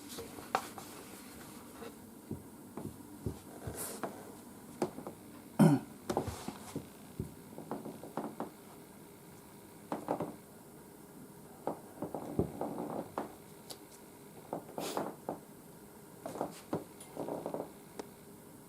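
Scattered small knocks, clicks and rustles, irregular and brief, the loudest a short sound about six seconds in.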